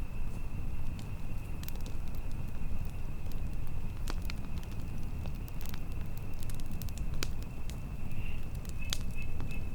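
Campfire crackling, with irregular sharp pops and snaps over a low rumble of burning wood and wind. A steady thin high-pitched tone runs throughout.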